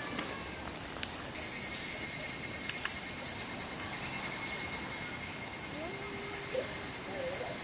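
Cicadas, including higurashi (evening cicadas), singing in a steady pulsing high-pitched chorus that swells louder about a second in.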